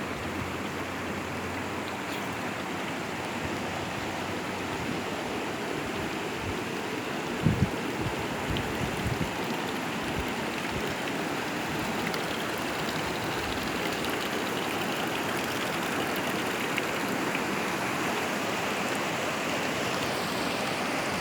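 Steady rushing of a fast-flowing stream, with two brief low thumps on the microphone about seven seconds in.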